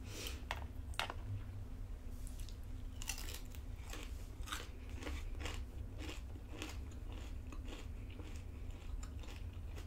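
Crispy bacon being bitten and chewed close to the microphone: a run of irregular sharp crunches.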